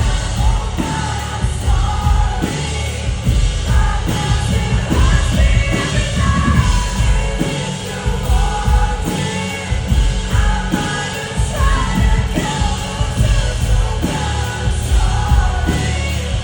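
Live pop-rock band playing with a male lead vocal singing over a heavy bass and drum beat, concert sound.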